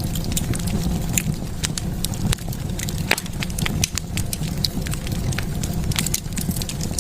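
Wood fire burning in a fireplace, crackling and popping with many irregular sharp snaps over a steady low rumble of the flames.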